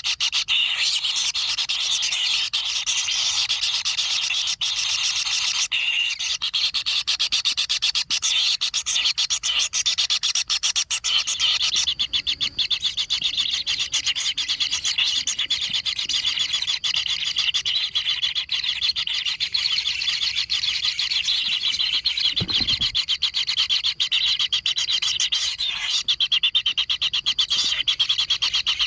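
Kingfisher nestlings giving a continuous, rapidly pulsing rasping buzz of begging calls.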